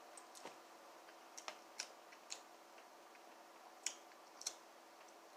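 Faint eating sounds: about eight small, sharp mouth clicks and smacks of chewing, scattered irregularly over a quiet room with a faint steady hum.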